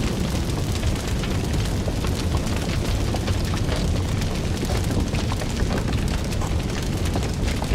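Fire burning with a steady low rumble and many small, sharp crackles and pops.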